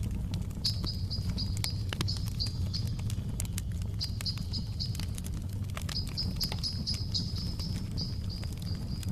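Wood fire crackling: scattered sharp pops over a steady low rumble. A high, quick chirping repeats through it in three runs with short gaps between.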